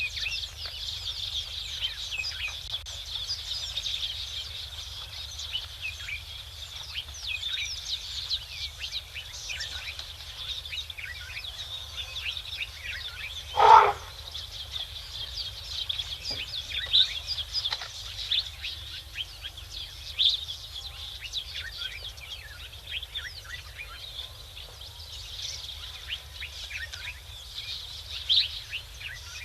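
Many small birds chirping together in a dense, continuous chorus. About halfway through there is one loud, brief cry that stands out above the chorus.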